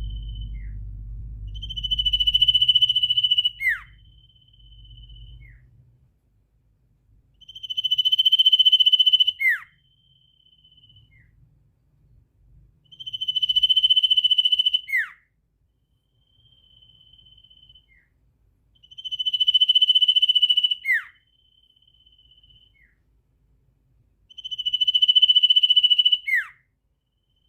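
A bird calling in a regular series, about every six seconds. Each call is a loud, buzzy note held at one pitch for a second or so, ending in a quick falling whistle, followed by a fainter short note. There are five calls, with a low rumble under the first few seconds.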